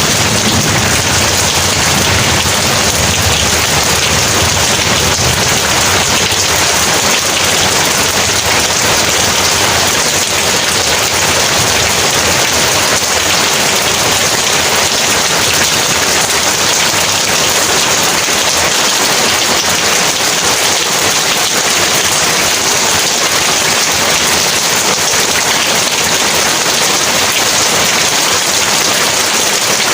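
Heavy rain pouring steadily in a dense, unbroken hiss. The tail of a low thunder rumble fades out in the first second or two.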